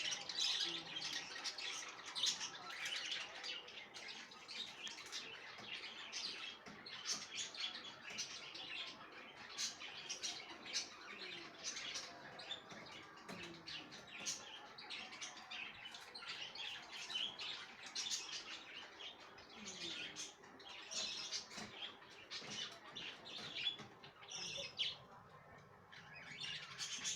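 A group of budgerigars (budgies) chirping and chattering in a steady stream of short, high calls.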